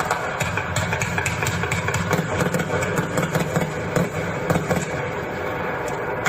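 A 225-shot firework cake firing a rapid, continuous stream of shots, many sharp cracks and bangs in quick succession blending into a rattling roar.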